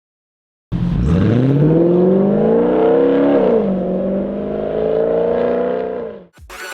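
Audi S5 engine revving through an AWE Tuning Touring Edition exhaust with non-resonated downpipes. It cuts in suddenly, climbs in pitch for about two seconds, dips briefly, then holds higher revs before dying away near the end.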